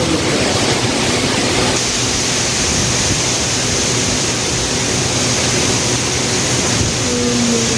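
Heavy rain falling at night, a loud, steady hiss of downpour without a break.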